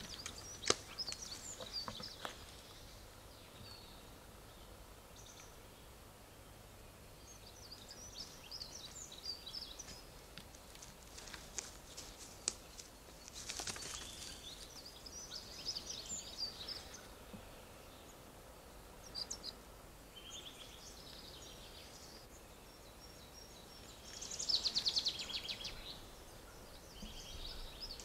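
Songbirds calling in a forest: scattered high chirps and short phrases over a faint steady hiss, with a louder burst of rapid chirping near the end. A few short sharp knocks come in the first couple of seconds and again around the middle.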